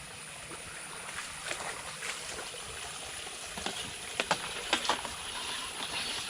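Running water from an overflowing well drain, a steady trickle and wash, with scattered small knocks and splashes.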